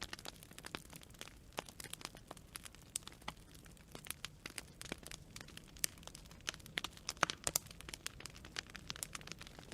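Wood campfire crackling: burning branches giving frequent, irregular sharp pops and snaps over a low steady rumble.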